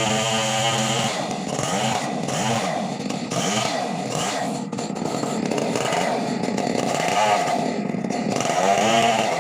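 Chainsaw engine running loudly. It holds a steady pitch for about a second, then its pitch dips and rises again over and over as the engine speed swings.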